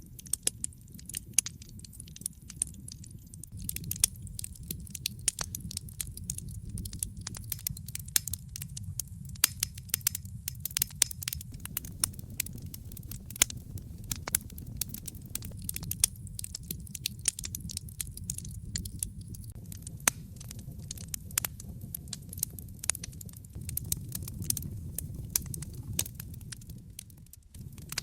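Wood fire crackling in a fireplace, with irregular sharp pops and snaps over a steady low rumble of the burning fire.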